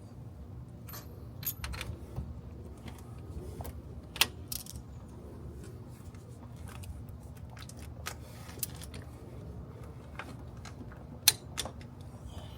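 Scattered light clicks and metallic clinks over a faint, steady low hum, with the sharpest clicks about four seconds in and near the end.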